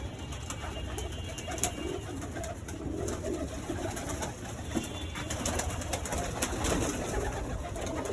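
Many domestic pigeons cooing at once, an overlapping steady chorus, with a few faint clicks.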